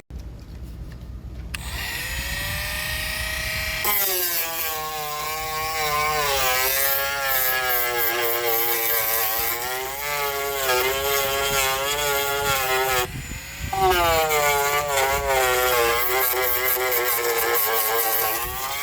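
Dremel rotary tool spinning up and grinding out broken paint at the edges of a damaged spot, a high whine that wavers in pitch as the bit bites. It stops briefly about two-thirds of the way through, then runs again.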